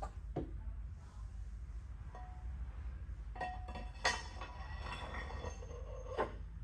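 Metal parts and tools clinking and knocking, with one sharp ringing metal strike about four seconds in and another knock near the end, over a steady low shop hum.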